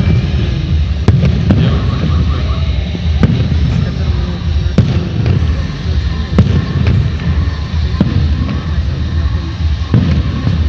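Fireworks display: shells bursting one after another at irregular intervals, each a sharp bang, over a continuous deep rumble of distant booms.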